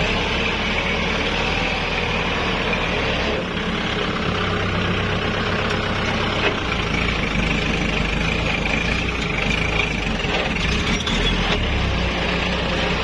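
Kubota L5018SP tractor's diesel engine running steadily, its low note shifting a few times as it works.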